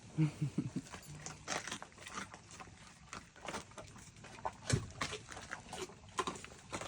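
Dogs eating raw chicken backs: an irregular run of bone crunching and chewing.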